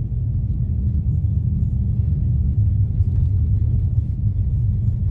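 Steady low road rumble inside the cabin of a moving all-wheel-drive car, the tyres and engine droning evenly.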